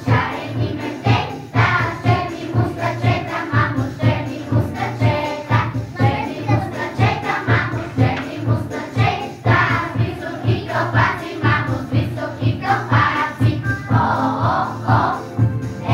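Bulgarian folk music: a group of voices singing over a steady, even beat.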